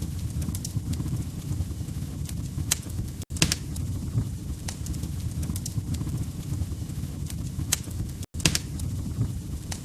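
Wood fire crackling in a fireplace: a steady low rumble of burning logs with sharp pops and snaps scattered irregularly through it. The sound drops out for an instant twice, about five seconds apart.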